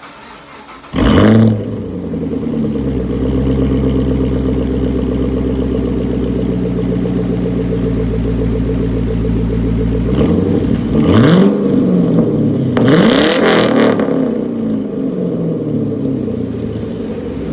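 Chevrolet Camaro engine started up through an exhaust fitted with a newly clamped-in X-pipe: it catches about a second in with a loud flare, then idles steadily. Near the end it is blipped twice, the second rev higher, then it drops back to idle.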